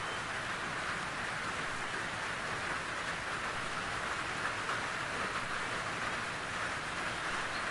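Steady rain falling, an even hiss of many drops with no single drop or gust standing out.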